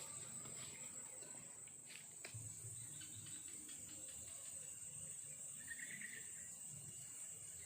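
Insects trilling steadily at a high pitch, faint, with a couple of soft clicks about two seconds in.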